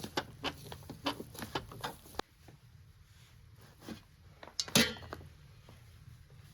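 Hard objects knocking and clinking: a quick, irregular run of light clicks and knocks, then after a sudden change in the background, one loud clink that rings briefly about five seconds in.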